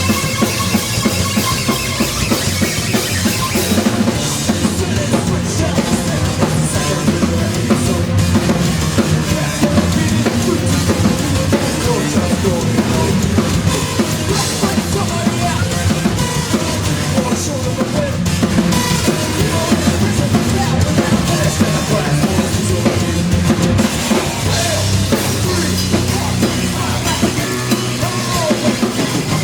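Live band playing loud rock, with the drum kit to the fore, bass drum and snare driving it.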